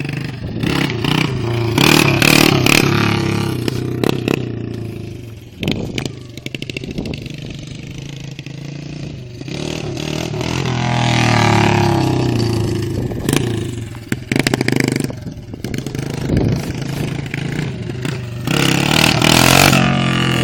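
Dirt bike engine revving up and easing off, rising in pitch and loudness several times: about 2 seconds in, again around the middle, and once more near the end.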